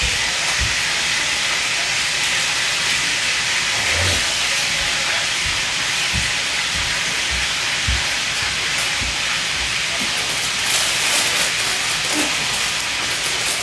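A steady, loud hiss with a few short low thumps.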